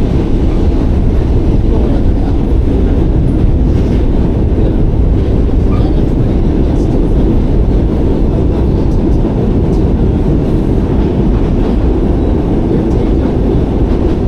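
New York City subway train running on the track, a steady loud low rumble of wheels and car with some clickety-clack.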